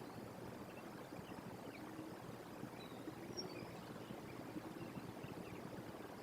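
Steady outdoor background hiss picked up by the nest-box microphone, with a few faint, short bird chirps scattered through it.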